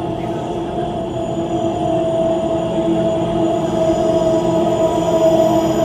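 A Transperth B-series electric train approaching through the tunnel into the underground station, still out of sight: a rumble with a steady two-note hum that grows slowly louder.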